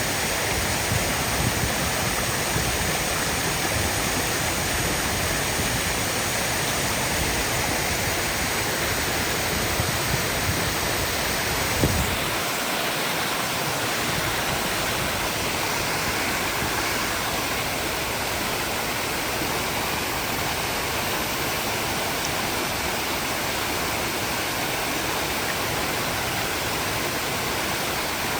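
Waterfall: a steady, even rush of falling water. A brief knock comes about twelve seconds in, after which the deep rumble under the rush drops away.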